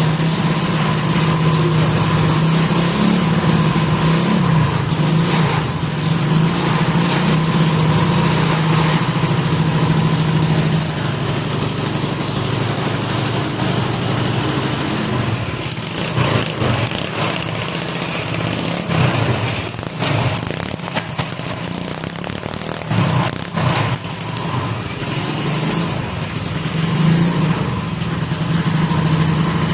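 Small 100cc four-stroke single-cylinder petrol engine running, with its exhaust going through the silencer. The running is steady, turns uneven and weaker from about 11 seconds in, and steadies again near the end.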